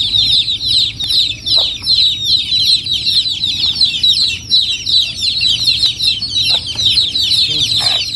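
A brood of domestic chicken chicks peeping continuously, many high, short, falling peeps overlapping, with a few brief lower clucks among them.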